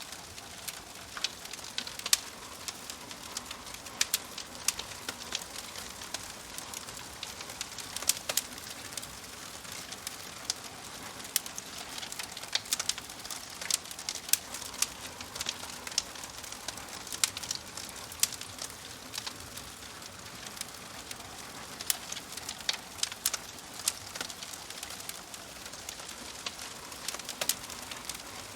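Fire crackling: irregular sharp pops and snaps, some louder than others, over a steady soft hiss.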